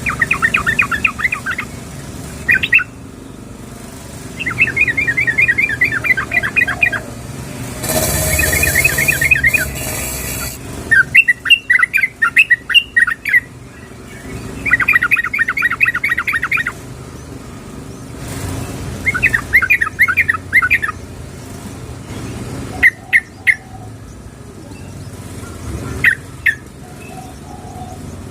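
Yellow-vented bulbul (trucukan) calling in rapid trilled phrases of about two seconds, each a quick run of repeated notes, with short single notes near the end; the call is the female's, used as a lure to draw a male. A burst of hiss sounds about eight seconds in.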